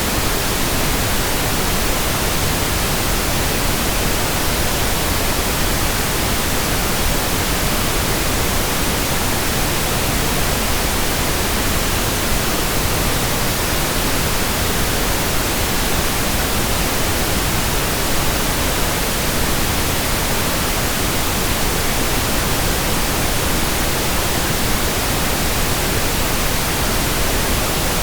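Steady synthetic pink noise: an even, unchanging hiss spread across all pitches, without breaks or events.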